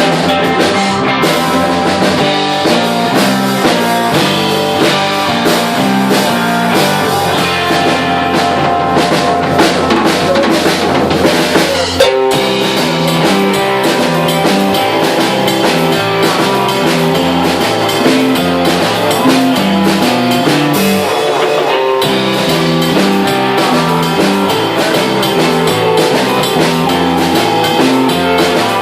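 Live rock band playing an instrumental passage: drum kit keeping a steady beat under guitar, with a sharp accent about twelve seconds in.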